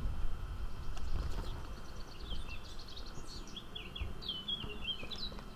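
A small bird singing a quick run of high chirping notes, starting about two seconds in, over a low outdoor rumble.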